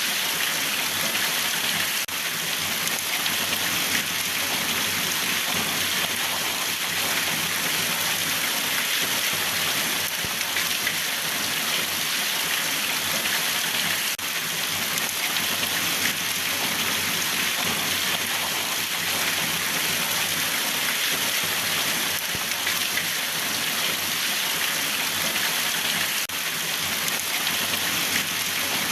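Steady rain falling, an even hiss of drops that neither builds nor eases.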